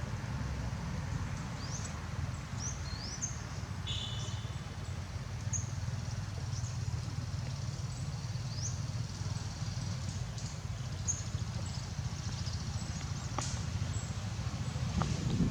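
Outdoor ambience: a steady low rumble, with short high rising chirps from small birds every second or so and a brief call about four seconds in.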